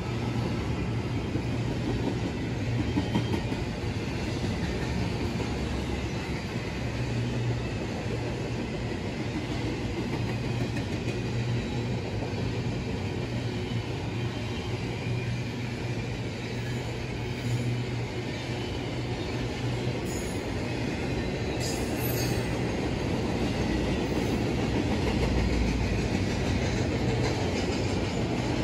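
Double-stack intermodal container train rolling past at close range: the steady rolling noise of steel wheels on rail from the passing well cars.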